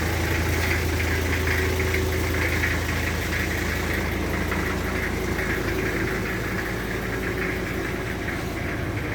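Toyota Land Cruiser 76 series' 1PZ five-cylinder diesel engine idling steadily.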